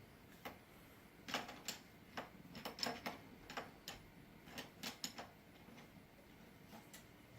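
A baby banging on a low table: a run of light, irregular knocks and taps, thickest in the first five seconds, with a couple more near the end.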